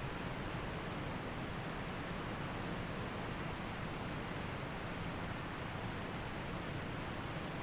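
Waterfall rushing steadily: an even, unbroken sound of falling water.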